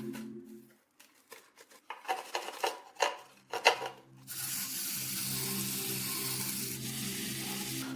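A few short metallic clicks and scrapes, then, about four seconds in, a steady hissing rub like abrasive work on metal begins, over quiet background music.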